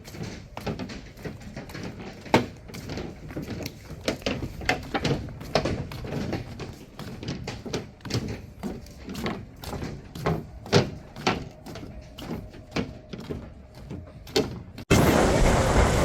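Irregular knocks and clicks, several a second, over a low background. About fifteen seconds in they cut off abruptly, giving way to a loud, steady rushing noise.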